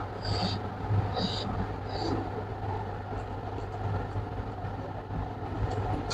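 Close-up eating sounds of someone chewing rice and pork eaten by hand, with a few short smacking noises in the first two seconds, over a steady low hum.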